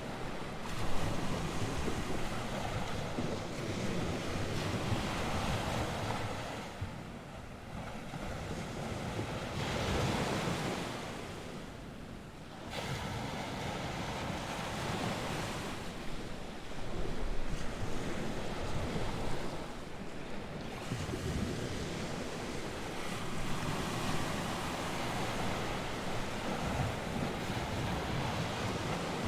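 North Sea surf: waves breaking and washing on the shore in a continuous rush that swells and eases every few seconds, with wind buffeting the microphone.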